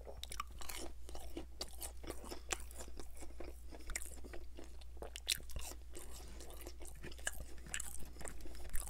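Close-miked chewing of crispy fried popcorn chicken: a steady run of small crunches and mouth clicks. A faint steady low hum sits underneath.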